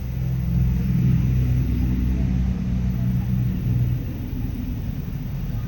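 A low, steady droning hum with a few held tones, louder for the first four seconds and then easing off.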